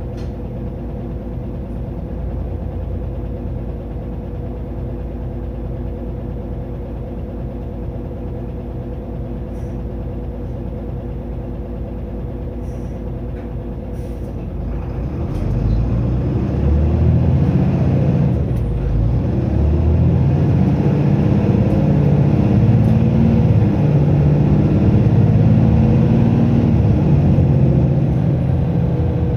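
Mitsubishi Fuso Aero Star city bus (LKG-MP37FKF) diesel engine running with a steady low drone. About halfway through it pulls hard and gets louder as the bus accelerates at full throttle.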